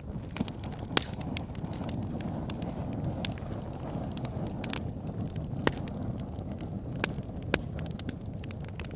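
Wood fire burning in a fireplace: a steady low rumble of flame under constant crackling, with a few sharper, louder pops about a second in and around six to eight seconds in.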